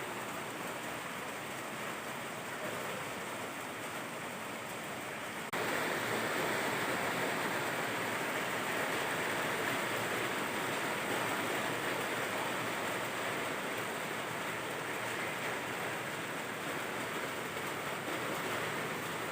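Steady rain falling, an even hiss of water. About five and a half seconds in it jumps abruptly to a louder, brighter wash and holds there.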